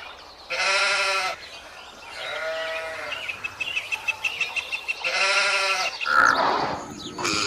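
A goat bleating three times, each call a wavering cry lasting about a second.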